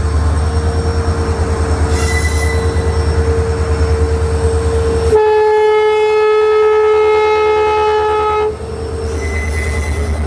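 Indian Railways EMD diesel locomotive running with a deep, steady engine rumble. About halfway through, a loud horn blast sounds for about three seconds.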